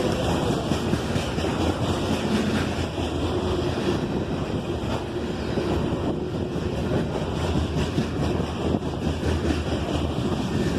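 Freight train rolling past as a steady, even rumble with no clear beat, mixed with wind buffeting the microphone.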